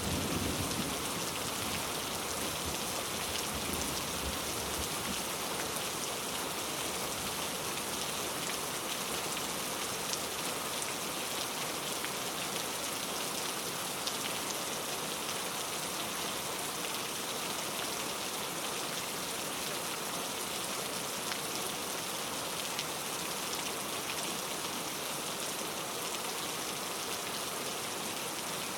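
Steady rain falling: an even, dense hiss of drops that holds unchanged. The tail of a low thunder rumble dies away in the first second.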